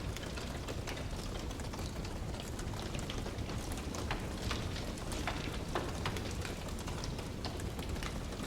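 Wood fire burning in a fireplace: a steady low rush from the flames, with frequent sharp crackles and pops from the burning logs scattered irregularly throughout.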